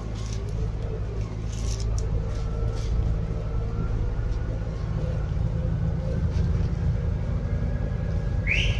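Scania N280UD double-decker bus running on its biogas engine, heard from inside the bus: a steady low rumble with faint drivetrain whines that slowly shift in pitch. A brief high squeal comes near the end.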